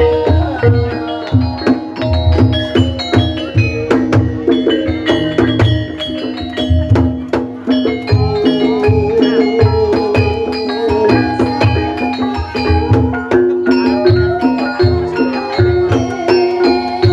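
Javanese gamelan music accompanying an ebeg dance: struck mallet-instrument notes in a steady pattern over regular hand-drum (kendang) beats.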